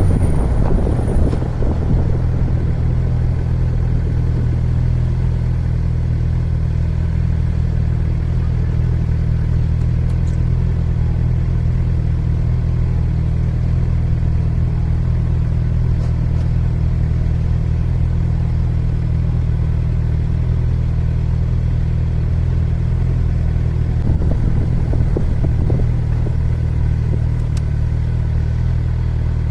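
Motorcycle engine running at a steady idle, a constant low rumble with no revving.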